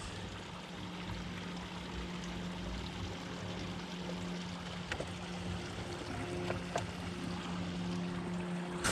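Steady low hum over a constant wash of running water, with a few faint clicks.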